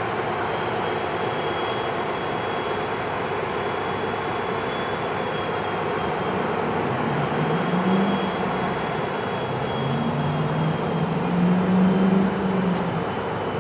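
A Siemens Charger diesel locomotive idling on a stopped Pacific Surfliner train, a steady engine rumble with a faint high whine. A lower droning tone swells and wavers through the second half.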